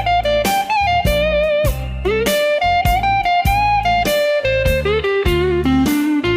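Blues instrumental: an electric guitar lead plays bent and sliding notes with vibrato over bass and a steady drum beat.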